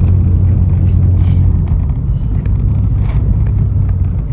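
Backhoe's diesel engine running steadily with a deep drone, with two short hisses over it about a second and three seconds in.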